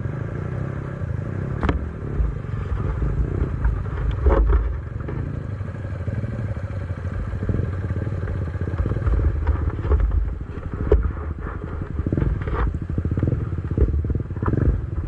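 Enduro motorcycle engine running, its loudness swelling and dipping, with a few sharp knocks and clatters scattered through.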